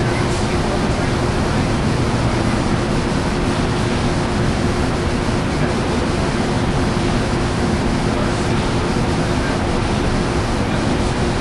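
Amtrak passenger train standing at the station: steady noise of the diesel locomotive idling, with a constant hum.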